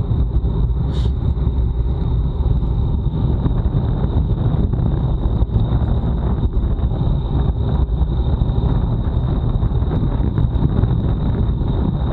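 Wind buffeting the microphone of a bike-mounted action camera while riding a road bike at time-trial speed: a loud, steady low rumble, with a faint steady high whine above it.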